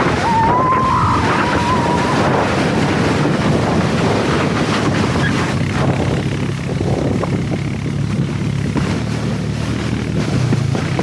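A truck engine running on the move with heavy wind rushing over the microphone, a steady noisy rumble throughout. A brief wavering high tone sounds near the start.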